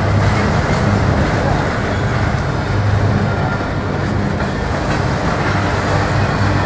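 Double-stack intermodal container well cars rolling past on the rails: a steady, loud rumble of steel wheels on track, with some clatter.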